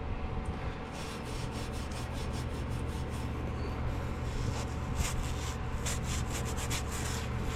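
Hand rubbing and scraping in quick repeated strokes, cleaning a metal sealing surface smooth where an O-ring will seat, over a steady low hum.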